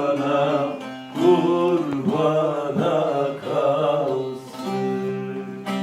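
A male voice singing a Turkish folk song with a plucked string instrument accompanying him. About four and a half seconds in, the singing ends and the strings carry on alone with held notes.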